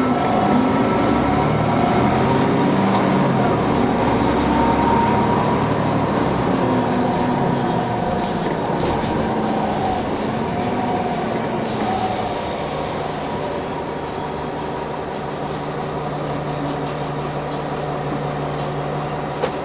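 NovaBus low-floor city bus engine running under way, its pitch rising and falling for the first twelve seconds or so, then settling into a steady lower note. A brief sharp click-like sound comes just before the end.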